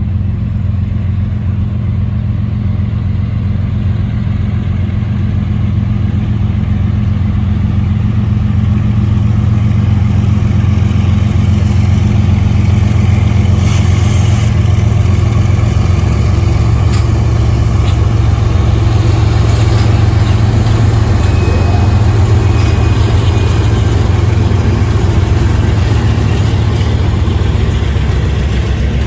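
Diesel-electric locomotives of a freight train running with a steady low drone that grows louder over the first half as the train comes near, with a few sharp clicks in the second half.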